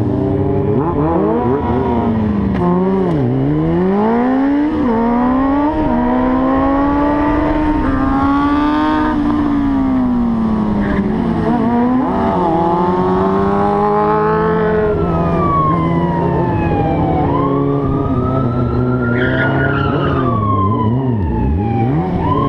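Motorcycle engine pulling hard and easing off again and again, its pitch climbing through each gear and dropping back. In the last few seconds a siren joins in, its wail slowly rising, falling and rising again.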